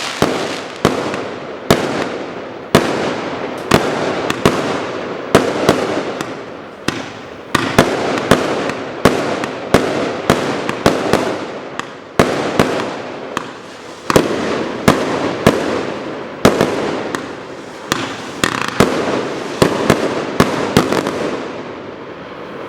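81-shot, 25 mm fireworks cake firing its shots in a steady sequence: sharp reports one or two a second, each followed by a hissing, crackling burst. The reports thin out near the end.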